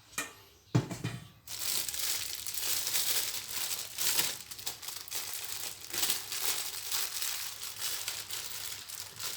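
Plastic bag crinkling continuously as it is handled and opened, with one knock about a second in.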